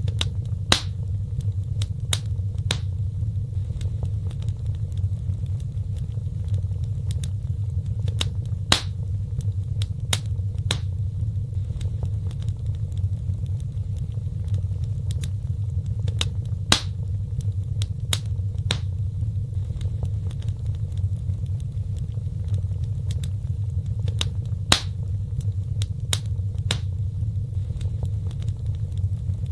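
Wood fire burning in a fireplace: a steady low rumble of flames with scattered sharp crackles and pops, a few of them much louder than the rest.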